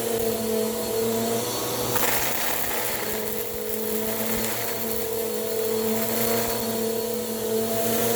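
Bissell PowerForce Compact upright vacuum running steadily with a constant motor whine. A rush of airflow hiss swells about two seconds in and again a few times after.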